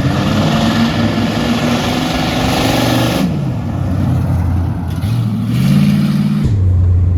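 Chevy 454 big-block V8 in a Silverado revving hard with a loud hiss over the first three seconds, the revs falling away. It revs again briefly about five and a half seconds in, then settles back to a low idle.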